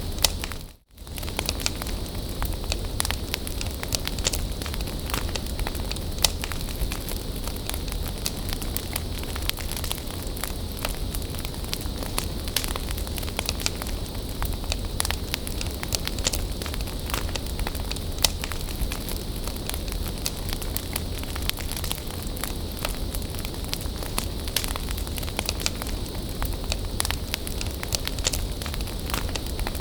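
Bonfire burning with steady hiss and frequent sharp crackles and pops of burning wood. The sound drops out briefly about a second in, then resumes.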